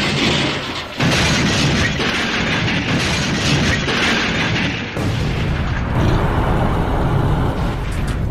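Explosion booms, each a sudden loud blast followed by a long noisy roar. Fresh blasts start abruptly about a second in, and again near five and six seconds.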